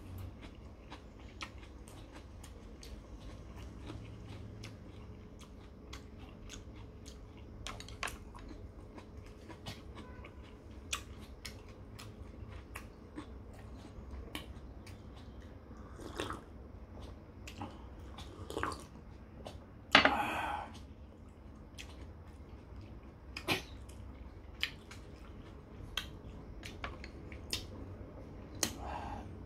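A man chewing noodle soup with meat, close to the microphone, with frequent small sharp clicks and a few louder short bursts, the loudest about twenty seconds in.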